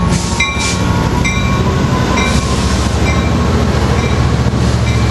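An Amtrak train pulling out past the platform: the F59PHI diesel locomotive's engine runs steadily while the cars roll by. A bell rings about once a second throughout.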